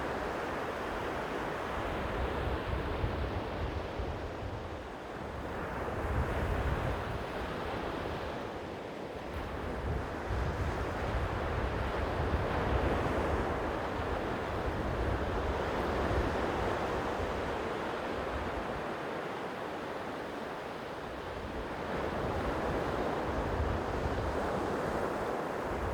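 Sea waves washing against the shore in a steady hiss that swells and ebbs every few seconds, with wind rumbling on the microphone.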